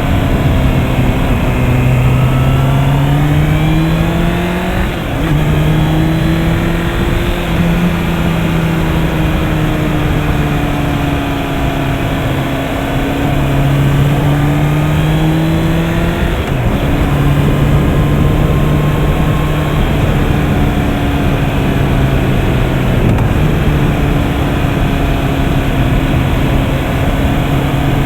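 Honda CB650R's inline-four engine under way, its pitch climbing as the bike accelerates, then dropping abruptly twice, about five and seventeen seconds in, as it shifts up, with smaller rises and falls in between.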